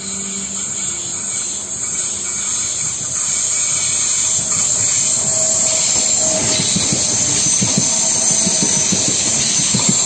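WKD electric multiple unit approaching and passing close by, growing steadily louder. In the second half its wheels clatter rhythmically over the rail joints.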